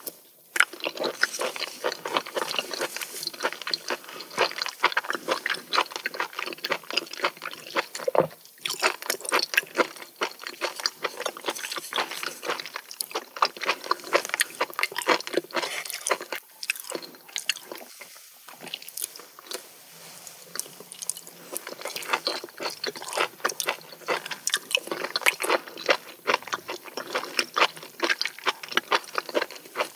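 A person chewing raw seafood and rice close to the microphone: a dense run of quick mouth clicks and smacks, with short pauses between mouthfuls.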